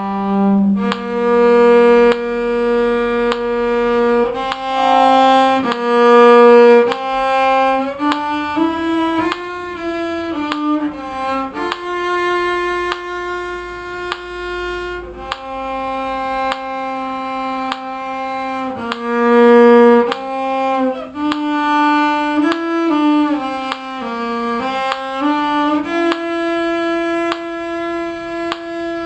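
Solo violin playing a simple melody, mostly held bowed notes with a few quicker runs of notes.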